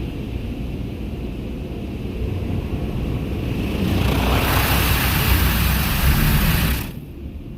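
Automatic car wash equipment heard from inside a truck's cab: a low steady rumble, with a hissing spray over the truck that builds from about three seconds in, stays loud for a couple of seconds, then cuts off suddenly near the end.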